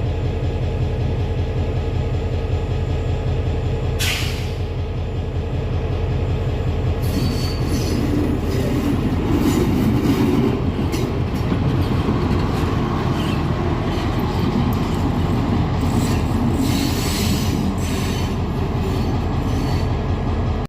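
A train passing close by: a steady low drone throughout, and from about seven seconds in, wheels clicking over rail joints with high wheel squeal.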